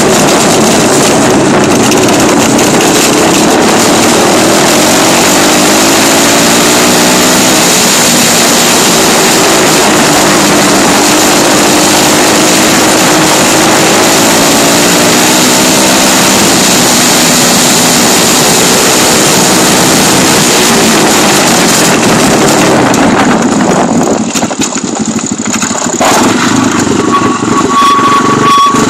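Dirt bike engine running under throttle, its pitch climbing and falling repeatedly as it revs, with heavy wind noise on the microphone. Late on the engine sound briefly drops away, and a steady high tone comes in near the end.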